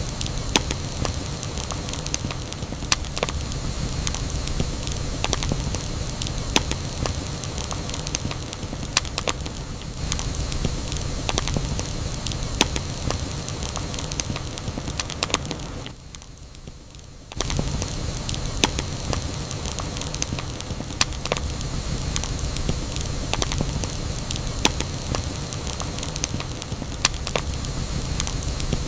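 Wood fire crackling: a steady hiss with frequent sharp pops and snaps at irregular moments. A little past the middle it drops much quieter for just over a second, then carries on as before.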